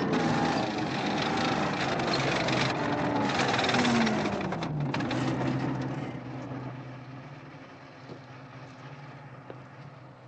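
Heavy vehicle engine running loud. About four to five seconds in its pitch drops and it fades to a lower, steady hum.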